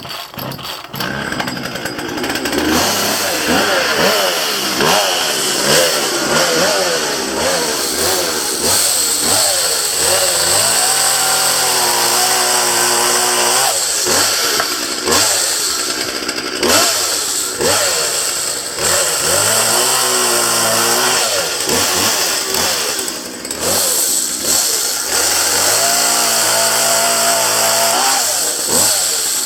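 Chainsaw running and cutting downed branches, its engine pitch rising and falling over and over as it revs and loads in the wood.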